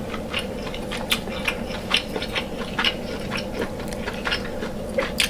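Close-miked eating of deshelled seafood boil: irregular wet clicks and smacks of chewing, several a second.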